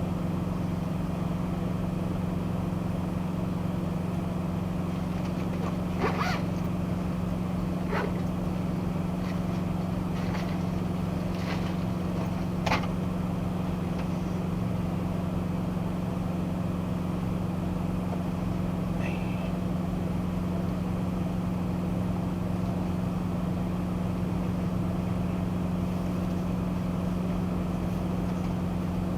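Box truck's engine and road noise from inside the cab: a steady drone, with a few sharp knocks or rattles between about six and thirteen seconds in.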